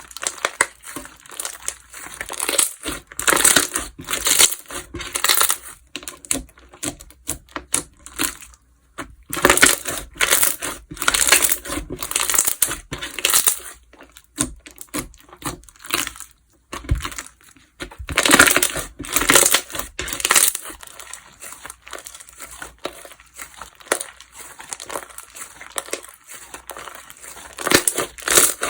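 Slime being squished and pressed by hand, giving dense, irregular crackling and crinkling sounds in bursts, with short pauses between handfuls.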